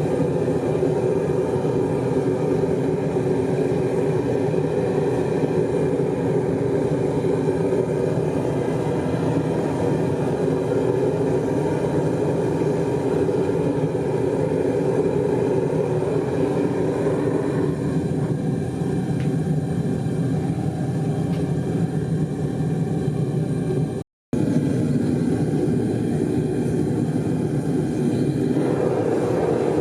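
Metal-melting furnace running steadily with a continuous roar-like noise. Its sound turns duller for most of the last third, and cuts out for an instant near the end.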